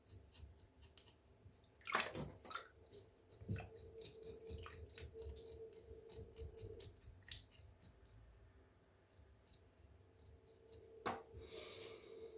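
Round gobies being cleaned in a basin of water: many small scraping clicks as the fish are worked, with light water splashing and a few louder scrapes.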